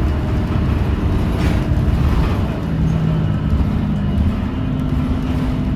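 Inside a 2017 New Flyer XDE40 diesel-electric hybrid bus under way: a steady low rumble of the drive with whining tones that shift in pitch, a lower hum about halfway through giving way to a higher, slightly rising one. The uploader blames the bus's weird sound on the transmission or a loose screw or panel rather than the engine.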